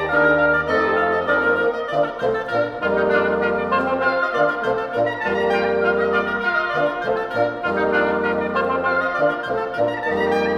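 Woodwind ensemble playing a lively Scottish fiddle tune: quick, busy melody notes over low held chords that change every second or two.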